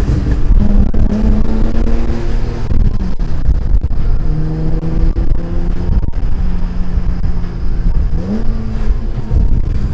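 Car engine running hard while driving, with heavy wind rumble; the engine pitch holds steady, falls back about three seconds in, and rises again near the end as it revs up.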